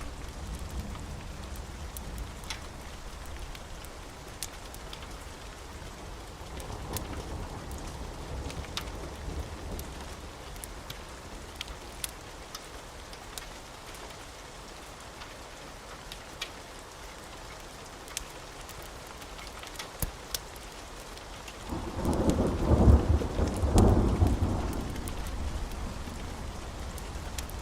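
Steady rain with scattered sharp crackles, then a loud roll of thunder about 22 seconds in that rumbles for around three seconds and fades, with another rumble building near the end.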